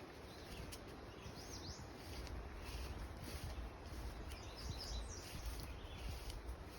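Songbirds singing in woodland: a few short chirping phrases over a steady low rumble of breeze.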